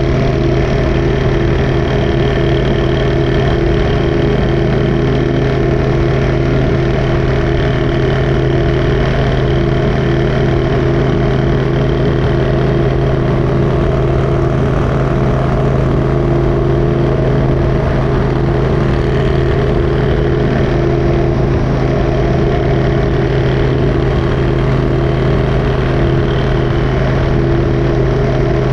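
Motorcycle engine running steadily with a constant hum and a low rumble, its note holding level with no revving or gear changes.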